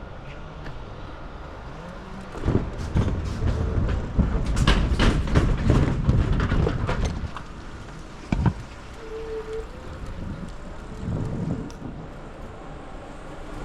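Bicycle rattling and clattering over a rough stretch of path for about five seconds, then a single sharp knock and quieter rolling.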